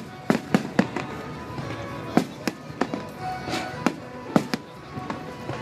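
Aerial fireworks bursting: an irregular string of about ten sharp bangs, some coming in quick pairs and triples.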